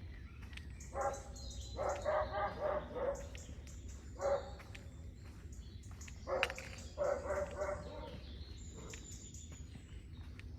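A dog barking: single barks and two quick runs of short barks, with birds chirping faintly.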